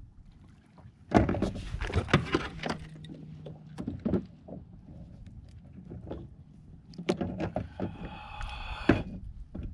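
Clunks and knocks of fishing gear handled against a plastic fishing kayak, with a brief squeak near the end.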